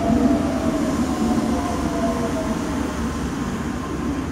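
Osaka Metro Nanko Port Town Line (New Tram) train running beside the platform: a steady rumble with a motor whine that slowly falls in pitch and fades.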